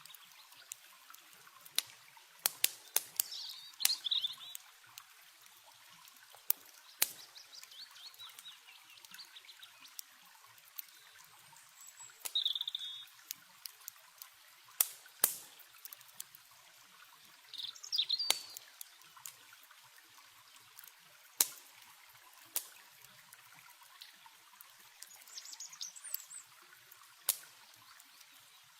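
Campfire crackling with frequent sharp pops, over a steady trickle of running water, with short bursts of bird chirps a few times.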